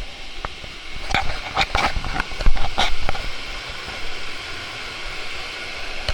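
Waterfall rushing steadily, with a cluster of knocks and bumps between about one and three seconds in.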